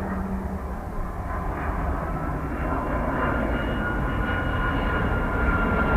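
Airbus Beluga XL's twin Rolls-Royce Trent 700 turbofans approaching on a low flypast. The low rumble grows steadily louder, and a high engine whine comes in about two seconds in and strengthens.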